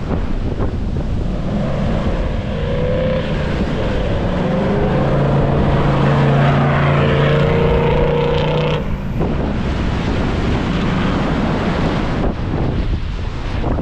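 Four-wheel-drive engine pulling along beach sand, its note rising a little and holding for several seconds before cutting off abruptly about nine seconds in, under heavy wind buffeting the microphone.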